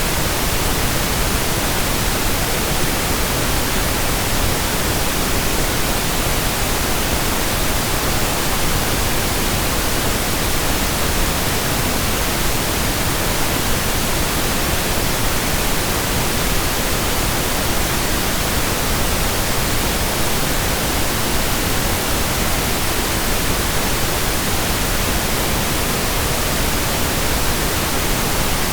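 Steady synthesized pink noise: an even, unchanging hiss spread across all pitches.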